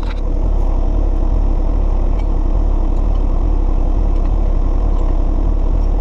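John Deere 1025R compact tractor's three-cylinder diesel engine idling steadily, with a few faint clicks.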